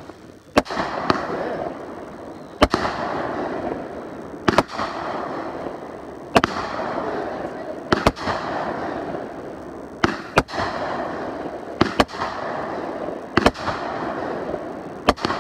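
Fireworks going off in a steady series: a sharp bang about every one and a half to two seconds, each followed by a fading crackling hiss, with two bangs close together around ten seconds in.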